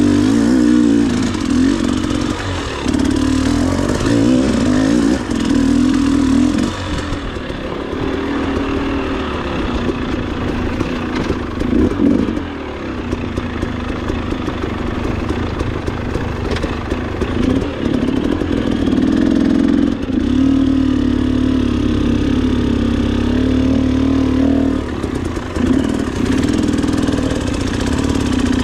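Dirt bike engine running under throttle while riding a trail, its pitch rising and falling as the rider opens and closes the throttle.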